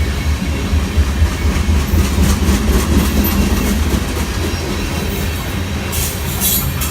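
Train passing close by: a steady heavy low rumble, with wheels clicking in a repeated rhythm over the rails from about two seconds in, sharper near the end.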